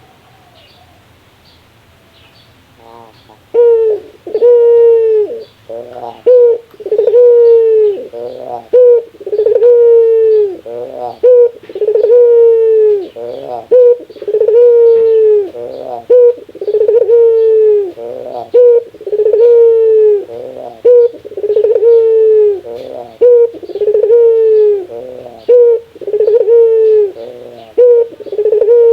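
Barbary dove (burung puter) giving its 'laughing' call, starting a few seconds in. A quick rolling run of stuttered notes alternates with a long coo that falls slightly at the end, repeating about once a second.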